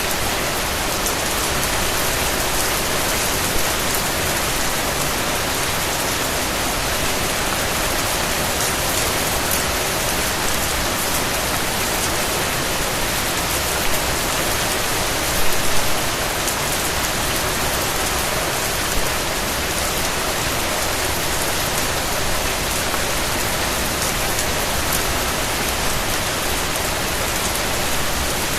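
Steady rain falling, an even hiss with the patter of individual drops striking a surface, and a few slightly louder drop hits about halfway through.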